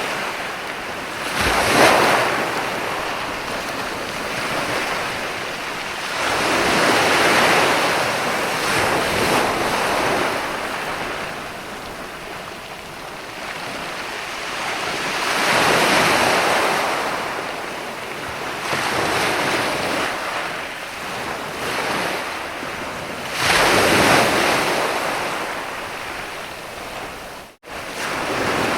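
Sea waves breaking and washing up onto a beach: a steady wash of surf that swells louder four times, with a momentary break in the sound near the end.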